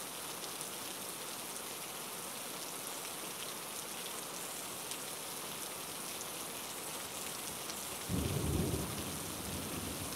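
Heavy rain falling steadily, an even hiss. About eight seconds in, a low rumble swells up for about a second.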